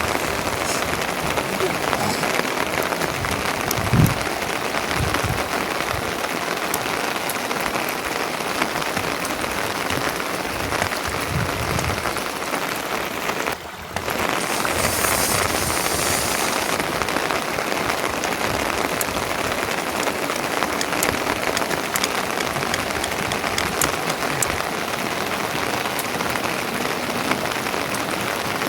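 Steady rain falling and pattering on surfaces, an even hiss that breaks off for a moment about halfway through, with a few dull thuds in the first part.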